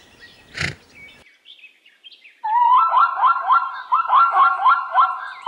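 A fast, regular series of short chirping animal calls, each note rising in pitch, about three a second. They start about two and a half seconds in, with scattered higher chirps before them and a single click about half a second in.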